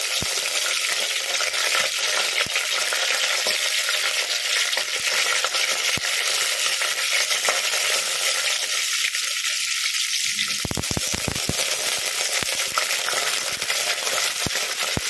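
Hot oil sizzling steadily in a pan during tempering (thalippu), with scattered sharp pops and crackles that come thicker in the last few seconds.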